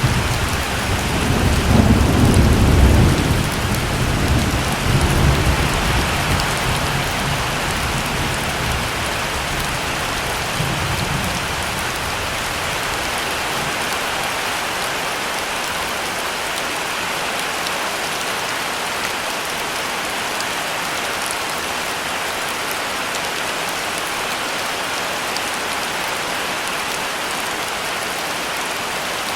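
Heavy rain falling steadily. A deep, rolling rumble of thunder comes in at the start, swells about two to three seconds in and dies away by about eleven seconds, leaving only the rain.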